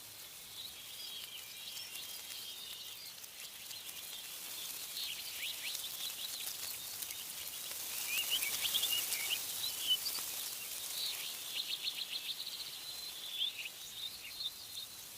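Several small birds chirping and trilling over a steady windy hiss, including a fast rattling trill about two-thirds of the way through.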